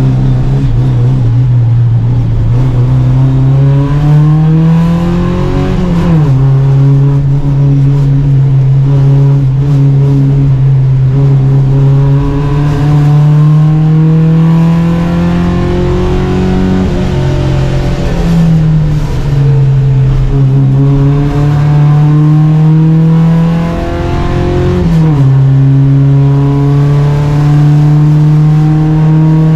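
Volvo Amazon 121 race car's four-cylinder engine running hard under racing load, its pitch climbing through the revs and dropping sharply at three gear changes.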